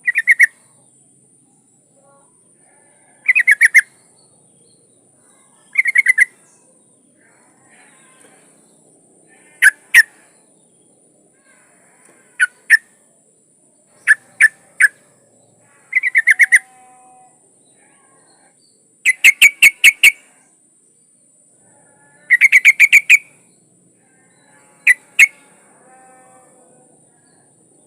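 Yellow-vented bulbul (trucukan) giving short chattering bursts of rapid notes, repeated every two to three seconds, a call presented as a female calling a male. A faint steady high hiss runs beneath.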